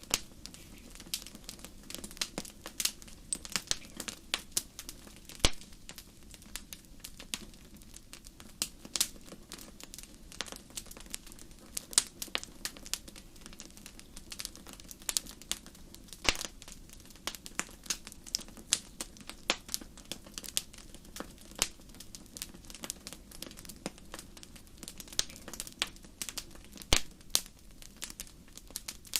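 Wood fire in a fireplace crackling, with irregular sharp snaps and a few louder pops over a soft steady hiss.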